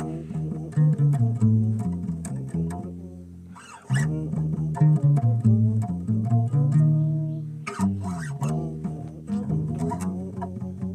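Bass played solo with plucked notes in melodic phrases; the playing fades to a brief lull about a third of the way in, then picks up again, with a sliding note later on.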